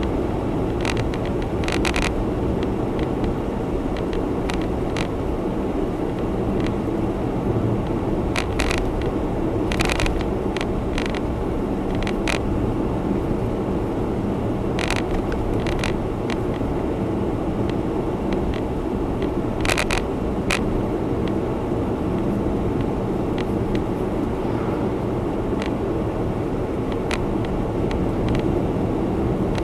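Honda Zest Spark heard from inside the cabin while driving: a steady mix of engine and road noise, with short sharp clicks at irregular moments.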